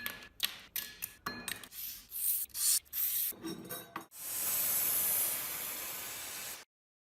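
A run of short, irregular rubbing and scraping noises from hand work on metal parts. About four seconds in comes a steady spray hiss lasting a little over two seconds, which cuts off suddenly.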